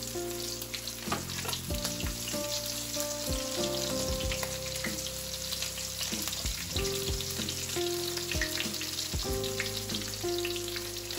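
Battered razor clam pieces sizzling in hot oil in a skillet, a continuous crackle with many small pops.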